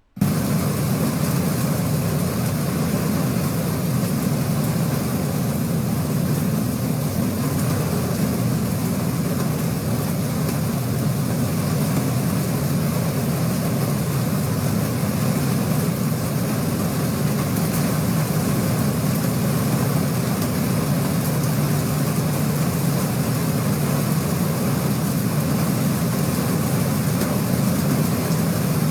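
Steady rushing noise of a flash-flood storm: heavy rain and running floodwater, with a low rumble underneath.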